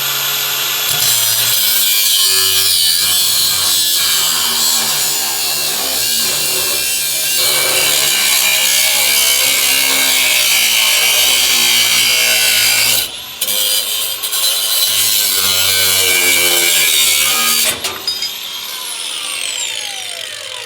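Cordless angle grinder running against steel: it spins up with a high whine, cuts out briefly about 13 seconds in and starts again, then is let go about 18 seconds in and winds down with a falling whine.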